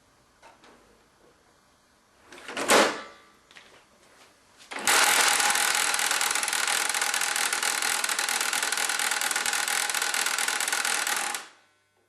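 HP LaserJet 1150 laser printer making a loud, rapid mechanical rattling grind for about seven seconds, then stopping abruptly. This is the abnormal noise of a dead printer with an unknown internal fault. A short, loud swell of noise comes a couple of seconds before it starts.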